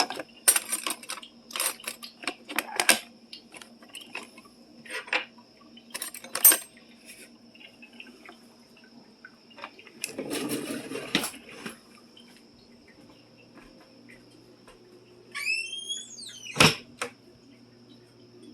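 Plates and dishes clinking as they are stacked and put away: many sharp clinks through the first half, then a short rushing scrape. Near the end comes a brief squeak and one loud knock, like a cabinet being shut. A faint steady high whine runs underneath.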